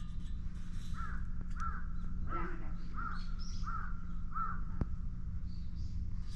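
A bird calling six times in an even series, short calls about two-thirds of a second apart, over a steady low hum; a single sharp click follows near the end.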